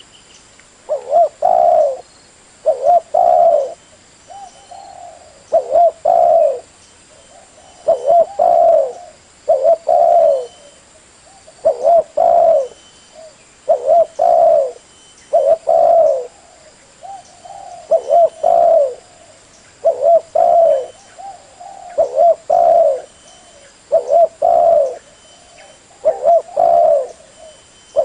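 Spotted dove cooing, repeating a short phrase of a few notes about every two seconds.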